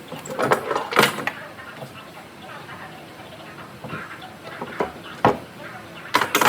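Several sharp knocks at irregular intervals, a few close together about a second in and a loud pair near the end, with a person's voice in the background.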